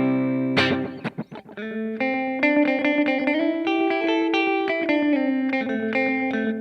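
Electric guitar played through an Old Blood Noise Endeavors Black Fountain V3 oil-can delay pedal with its modulation off, sounding like a plain delay. A loud chord opens, its echoes repeat and fade for about a second, then a run of notes climbs and falls before stopping suddenly at the end.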